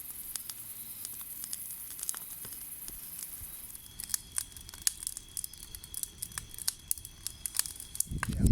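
Wood fire crackling, with irregular sharp pops and snaps over a steady high hiss.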